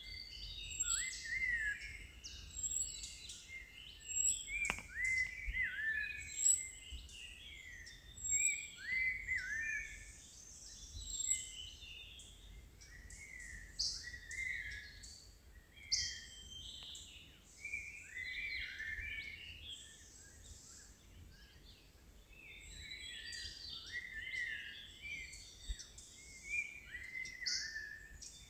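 Forest birds singing and calling: many short, whistled notes that rise and fall, overlapping from several birds. A thin, high call repeats roughly every one and a half seconds through the first ten seconds or so.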